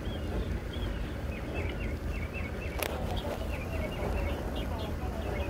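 Small birds chirping in quick, repeated short notes over a steady low rumble, with one sharp click about three seconds in.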